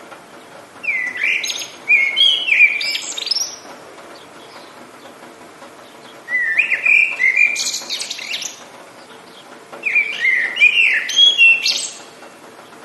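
A songbird singing three phrases of quick, rising and falling whistled notes, each two to three seconds long, with pauses between them, over a steady soft hiss.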